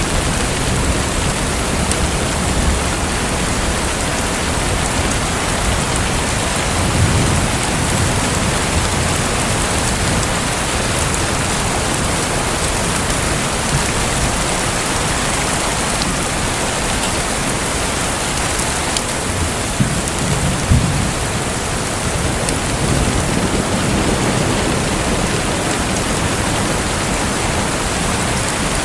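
Steady rushing, splashing water with a few brief low swells, about 7 and 20 seconds in.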